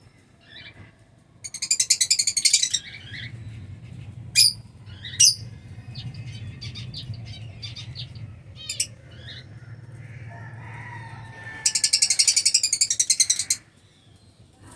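Lovebirds calling in an aviary colony: two long bursts of rapid, shrill chattering, one near the start and one near the end, with a few sharp single chirps between.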